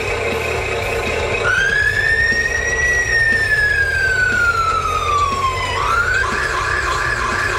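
Siren from a radio-controlled Scania fire truck model's sound module: one slow wail that rises and then falls over about four seconds, then switches to a fast alternating two-tone pattern. It plays over a steady low engine hum.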